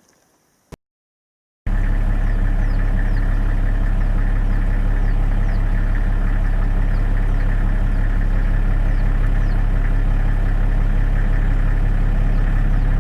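Engine idling with a steady low hum, starting abruptly about one and a half seconds in, with faint short high chirps repeating above it.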